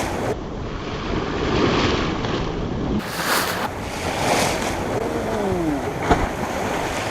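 Ocean surf washing against the shore, with wind buffeting the microphone. A brief sharp knock about six seconds in.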